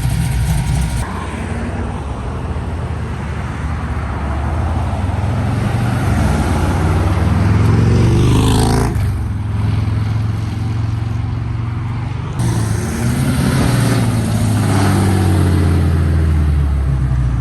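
A vehicle engine accelerating hard, its pitch climbing steadily. It cuts off abruptly about nine seconds in, then comes back and climbs again from about twelve seconds.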